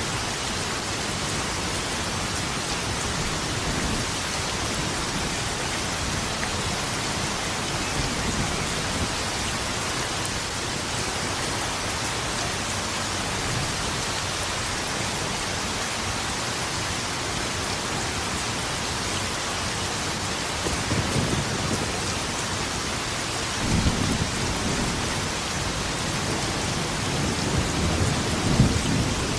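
Steady rain with thunder rumbling low in the background, swelling a few times in the second half, loudest near the end.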